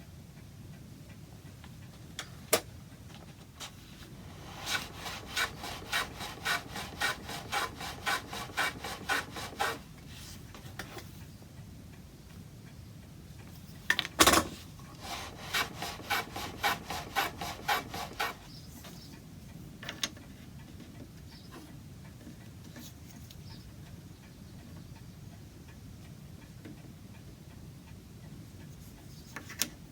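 A hand tool worked on wood in quick back-and-forth strokes, about two a second, in two bouts of several seconds each, with a sharp knock between them.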